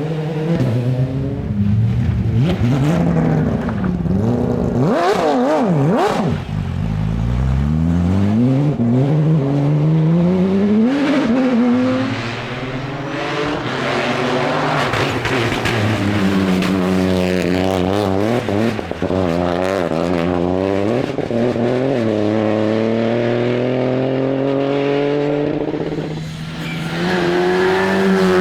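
Rally car engine at racing speed, revving hard: the pitch swings up and down quickly early on, then climbs again and again, stepping down at each upshift. The revs dip briefly near the end, then pick up again.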